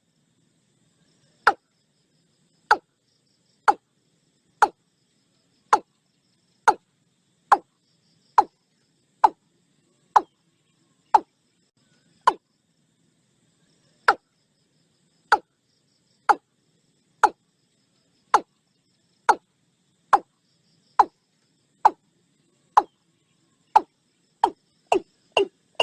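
Watercock calling: a long series of short, sharp notes, each dropping quickly in pitch, about one a second, quickening to about two a second near the end.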